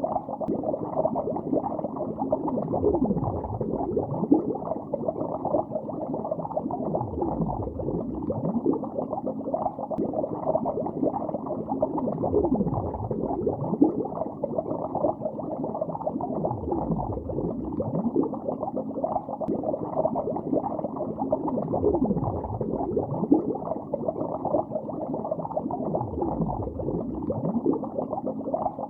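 Continuous underwater bubbling, muffled and dull, with dense small bubble pops and a deeper gurgling swell about every four to five seconds.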